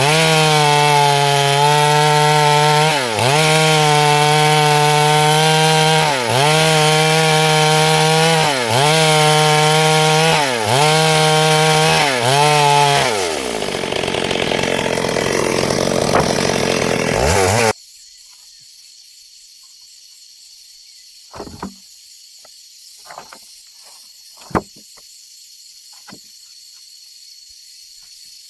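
Chainsaw cutting through wood at high revs, its pitch dipping briefly every two to three seconds as it bogs under load. About halfway through the engine note falls away, leaving a rough sawing noise. That noise cuts off abruptly, leaving a faint hiss with a steady high tone and a few soft clicks.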